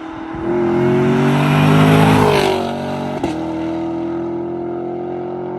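Chevrolet Camaro SS V8 on its stock exhaust accelerating hard at full throttle and passing by. The engine note climbs, peaks and drops in pitch as the car goes past about two seconds in. A sharp crack of an upshift comes a little after three seconds, then the engine pulls away at a steady note.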